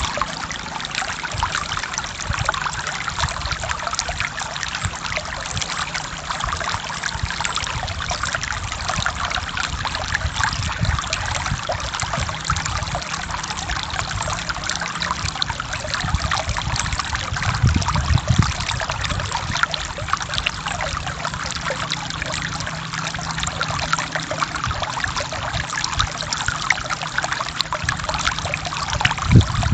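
Forest stream flowing and trickling over rocks in a steady, splashing rush, with a deeper gurgle swelling briefly about two-thirds of the way through.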